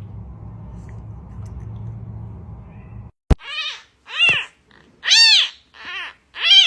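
A cat meowing five times in quick succession, each call rising then falling in pitch. Before that come about three seconds of faint low hum, and a sharp click just before the first meow.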